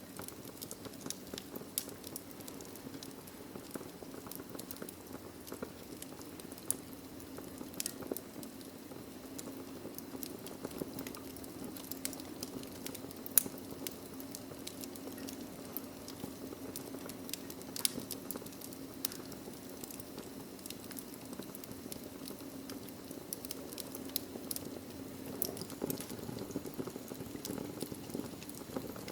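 Wood logs burning in a fireplace, crackling with irregular pops over a steady hiss, one louder pop near the middle.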